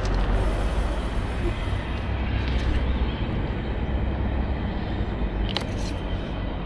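Steady low rumble and wind noise buffeting the microphone, with a short click about five and a half seconds in.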